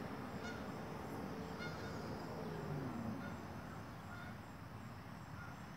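Faint outdoor background noise with a bird calling in short high chirps about once a second.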